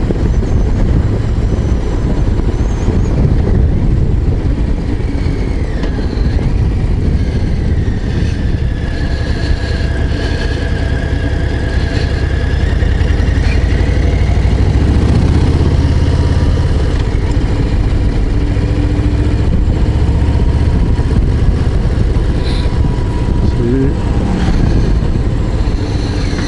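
Harley-Davidson Low Rider ST's Milwaukee-Eight 117 V-twin running under way on the road, its exhaust note loud and steady with a slight swell in the middle as the throttle changes.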